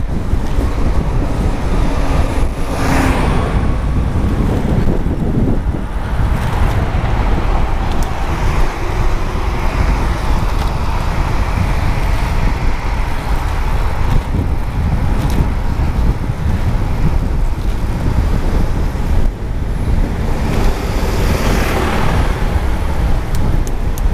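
Street traffic heard while cycling, with a steady low rumble of wind on the microphone and vehicles passing, louder about three seconds in and again near the end.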